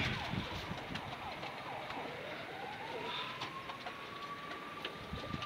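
A siren that winds up in pitch from low to high over about a second and a half, about two seconds in, then holds one steady tone, with faint short chirps before it.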